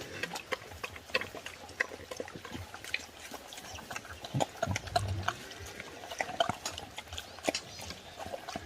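Pigs grunting now and then amid many short clicks and smacks, loudest about five seconds in.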